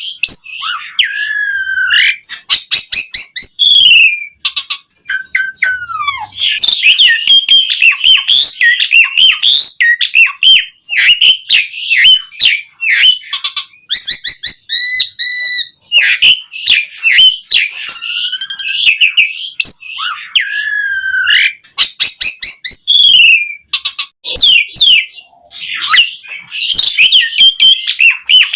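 Asian pied starling (jalak suren) in full song: a rapid, unbroken medley of clear whistles, swooping notes that slide up and down, and dry clicks and chatters.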